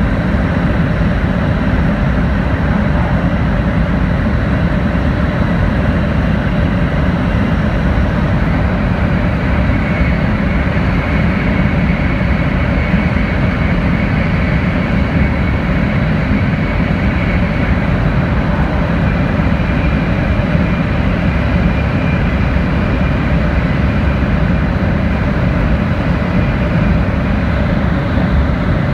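Steady running noise inside an N700-series Shinkansen car: a dense low rumble from the wheels and track. A faint high tone comes in about a third of the way through.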